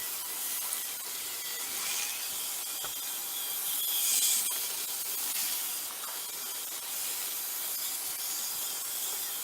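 N gauge model trains running on the track: a steady hissing rattle of small wheels rolling over the rails, with the little motors running, swelling louder about four seconds in as a train passes close.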